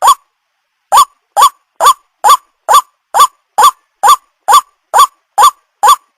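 White-breasted waterhen (ruak-ruak) calling: a short, rising 'ruak' note repeated about twice a second in an even series, with one short gap in the first second.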